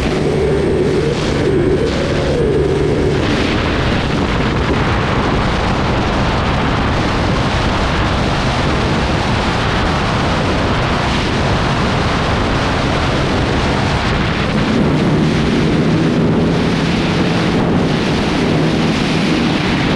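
Motorcycle engine running under way, with heavy wind noise on the microphone. The engine's tone is plain for the first few seconds, rising briefly about two seconds in. Wind noise then drowns it until about three-quarters of the way through, when the engine tone comes back.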